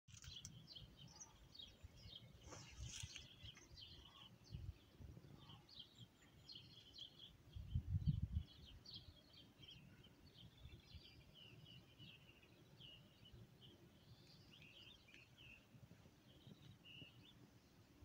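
Faint chirping and twittering of small songbirds, many short calls throughout. Under it a low rumbling on the microphone, loudest about eight seconds in.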